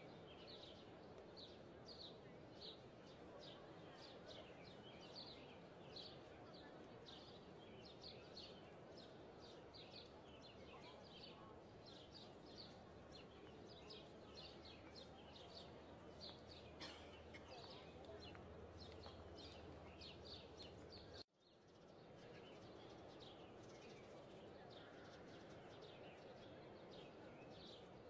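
Faint birdsong: short high chirps repeating a few times a second over a steady soft ambient hiss. The sound cuts out for a moment about three-quarters of the way through, then resumes.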